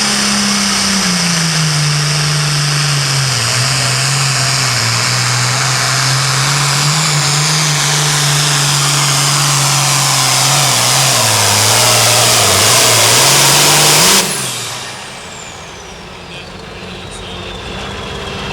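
Turbocharged diesel super farm pulling tractor running under full load on a pull, its engine note holding steady with slight dips and a high turbo whine over it. About fourteen seconds in the throttle comes off suddenly: the engine falls back toward idle and the turbo's whistle winds down in pitch as the run ends.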